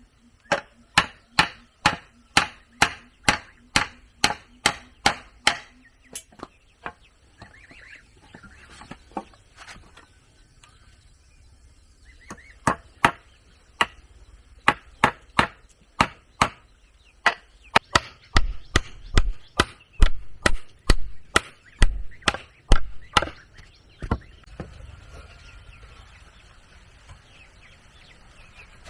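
Repeated chopping blows on wood, about two strikes a second, pausing for a few seconds partway and resuming with some heavier, deeper thuds before stopping near the end.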